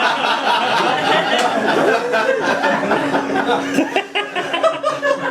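Audience laughing, many voices together, in a steady loud wave.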